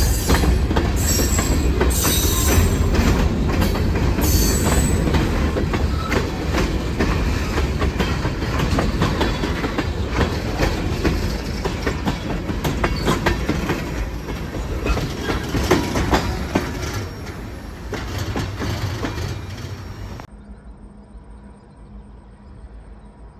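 A freight train rolling past, with wheels squealing during the first few seconds and a steady clatter of wheels over the rails. The sound fades slowly and then cuts off suddenly about twenty seconds in, leaving only a faint background.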